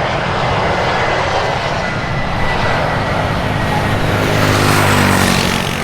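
Airliner's engines as the aircraft passes close by: loud rushing noise with a thin steady whine, swelling to its loudest about five seconds in.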